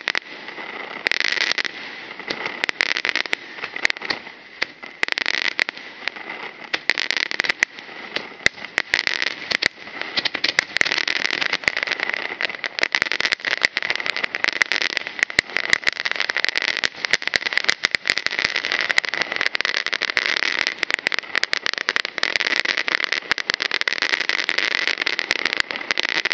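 Aerial fireworks crackling densely: senrin (thousand-ring) shells bursting into many small stars that pop in rapid, overlapping succession, with a faint steady high tone beneath.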